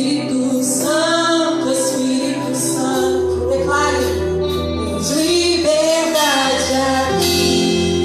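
Gospel worship song: a woman singing with vibrato over band accompaniment of held chords and a bass line that comes in about three seconds in.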